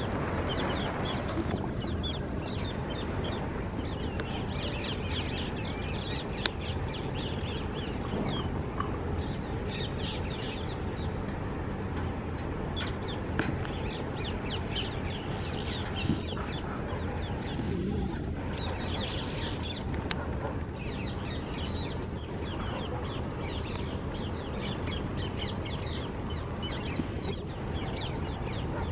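Caged birds chirping and chattering in short bursts over a steady low background noise, with a few sharp clicks.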